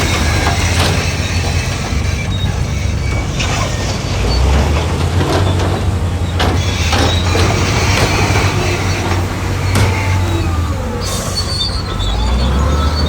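A bulldozer's diesel engine runs steadily, with scattered metallic clanks and, near the end, thin high squeals typical of steel crawler tracks.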